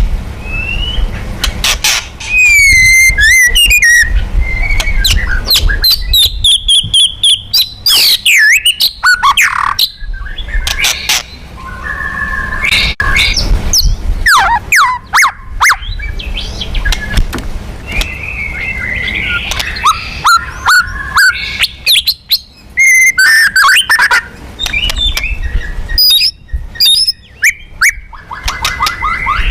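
White-rumped shama (murai batu) singing a loud, varied song of clear whistles, rising and falling glides, fast trills and sharp clicking notes, over a low rumble. It is the kind of agitated song played to provoke other shamas into singing.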